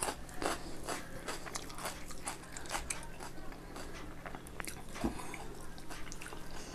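A person chewing and biting food close to the microphone: a quick, irregular run of small crunching clicks and mouth sounds, with one heavier thump about five seconds in.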